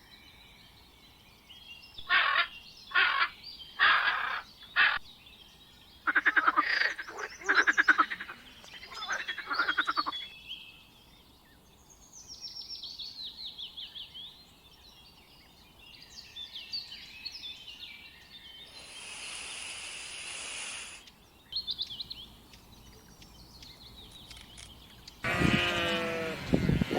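Frogs croaking: four short, loud croaks, then a run of fast pulsing, trilled calls, with softer chirping calls and a brief two-second hiss in between. Near the end a sheep starts bleating loudly.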